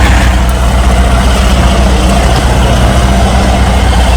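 Truck engine running steadily, a loud low drone.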